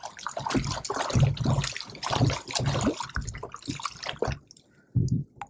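Water splashing and dripping in quick, irregular bursts close to a fishing kayak, dying away about four seconds in, with one more brief splash near the end.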